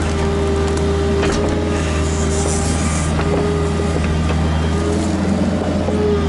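Kubota KX121-3 mini excavator running steadily: a low diesel engine hum with a constant hydraulic-pump whine and a few faint knocks of the work.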